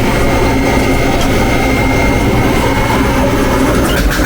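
A machine running steadily and loudly, a continuous noise with a low hum and a thin steady whine.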